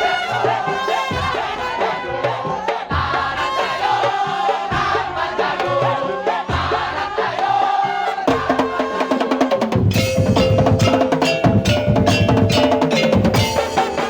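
Madurese daul (tong-tong) music: a melody over drum and wood-block beats. The percussion turns louder and denser about ten seconds in.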